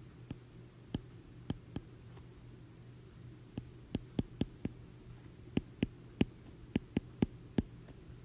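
Pen tapping and clicking against the writing surface as a chemical equation is written out, in irregular sharp clicks with a pause of about a second and a half in the early part, over a steady electrical hum.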